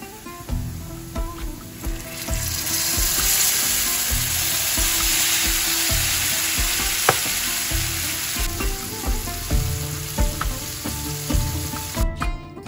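Seasoned diced pieces sizzling as they fry in an oiled frying pan, over soft background music. The sizzle swells about two seconds in and cuts off abruptly near the end, with one sharp tick about seven seconds in.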